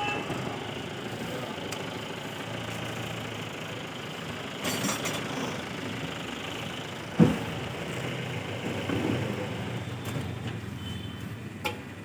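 Motorcycle engine running steadily, with a single sharp knock about seven seconds in.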